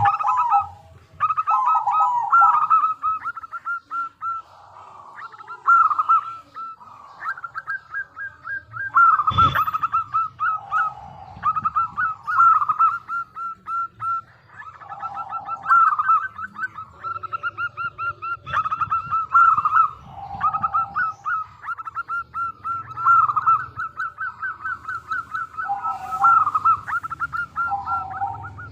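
Zebra dove (perkutut) cooing over and over: quick stuttering phrases that run into lower, longer coo notes, repeated every few seconds. A single thump about nine seconds in.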